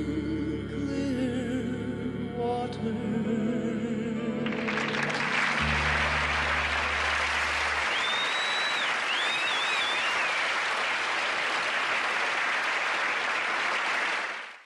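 A western vocal harmony group holds the song's final chord over its backing band. About four and a half seconds in, audience applause breaks out and carries on, with a whistle or two from the crowd, until it cuts off abruptly.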